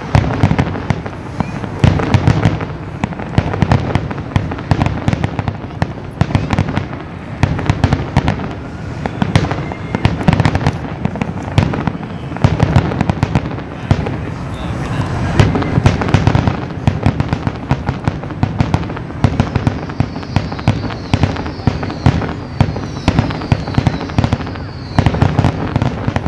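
Fireworks display going off without pause: dense booms and crackling from many shells in quick succession, with a run of short, high, falling whistles in the last several seconds.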